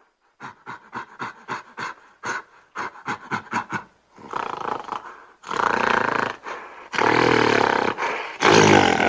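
An animal calling: a quick run of short calls, about three or four a second, for the first four seconds, then several longer, louder calls.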